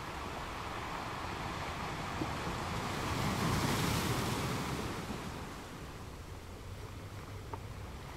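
Sea waves washing, a swell of surf building about three seconds in and easing off after about five seconds.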